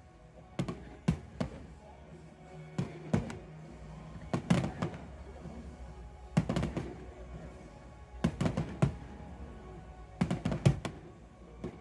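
Fireworks bursting in quick clusters of sharp bangs, each followed by a short rumble, over music playing.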